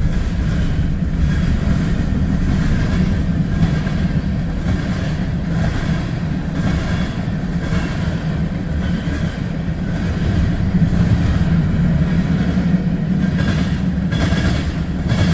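CSX mixed freight train's cars rolling past at a crossing, a steady low rumble, heard from inside a truck cab.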